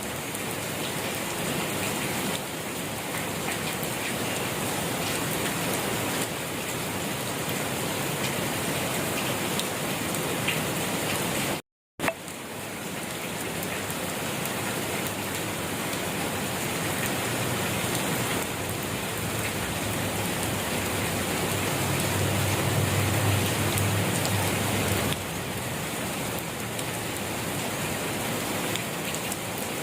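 Steady rain falling on surfaces, an even hiss of many drops. It cuts out completely for a moment near the middle, and a low rumble swells and fades in the second half.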